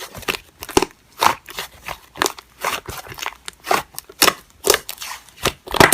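Slime being pressed and squished by hand, making sticky clicking and crackling pops about twice a second.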